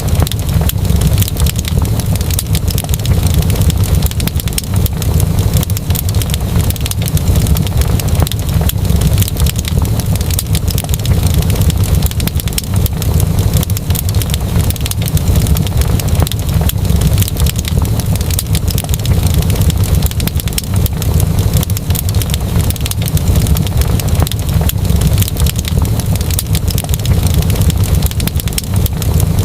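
Wood fire crackling in a fireplace, with frequent small pops and snaps over a steady low rumble of the burning fire.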